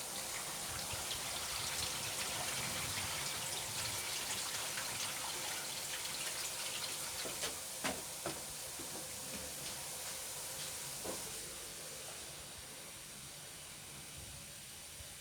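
Water running and splashing steadily for about ten seconds, then dying away, with a couple of light knocks about halfway through.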